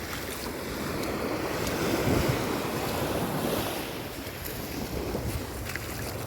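Sea waves washing onto the beach, swelling and falling away, with wind buffeting the microphone.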